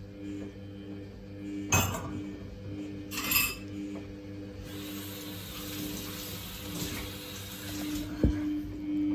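Samsung WF1700WRW front-loading washing machine mid-cycle: a steady pulsing hum with two sharp clinks early on, a hiss for a few seconds in the middle, and a short knock near the end.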